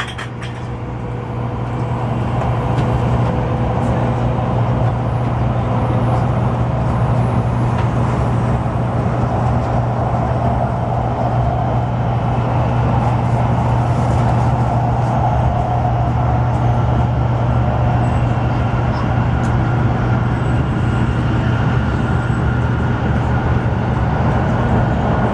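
Steady running noise of a Shinkansen bullet train at speed, heard from inside the carriage: a low hum under an even rushing rumble. It rises over the first couple of seconds, then holds steady.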